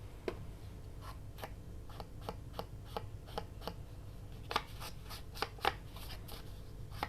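Scissors snipping through paper in short, crisp cuts, about two or three a second at an uneven pace, a few of them louder about two-thirds of the way in.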